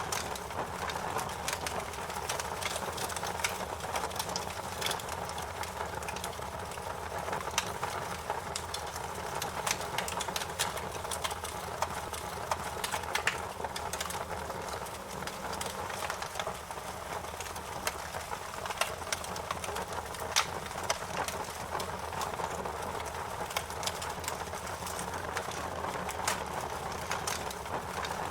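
Wood fire crackling in a fireplace: frequent sharp pops and snaps over a steady hiss and low rumble.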